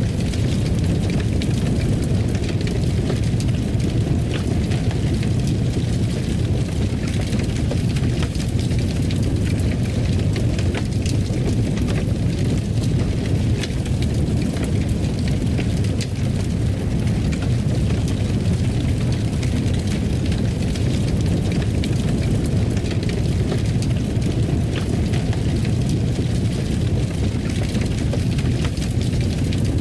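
Wood fire crackling in a fireplace: a steady low rumble of flames with scattered small pops and crackles throughout.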